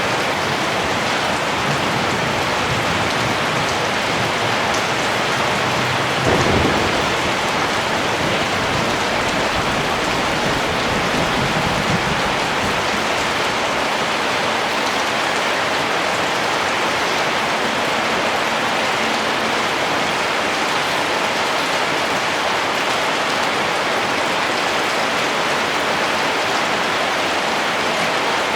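Steady rain falling, with a low roll of thunder about six seconds in that fades away over several seconds.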